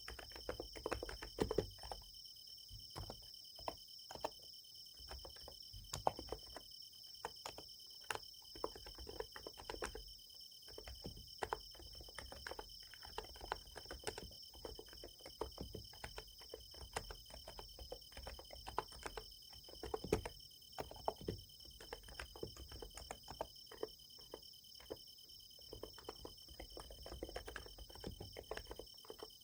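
Steady typing on a Niz Plum x108 electrostatic capacitive (topre-style) keyboard: soft, irregular keystroke clicks, several a second with short pauses. Behind it, insects chirp in a steady high trill.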